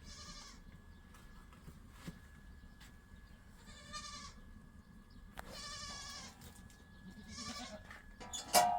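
Goats bleating: four short calls a couple of seconds apart. Near the end comes a loud, sharp knock with a brief ring.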